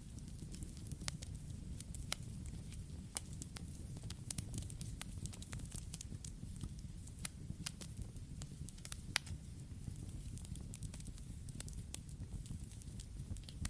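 Wood campfire burning: a steady low rush of flames under frequent irregular crackles and pops. The sharpest pop comes about nine seconds in.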